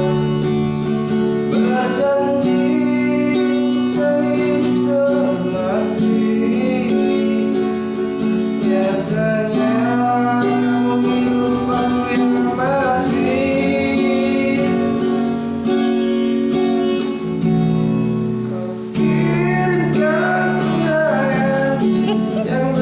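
A voice singing a song over a strummed acoustic guitar.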